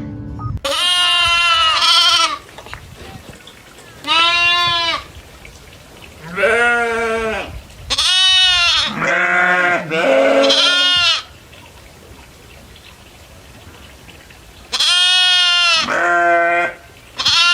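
Goats bleating: about eight loud calls of around a second each, in clusters with quiet gaps between them.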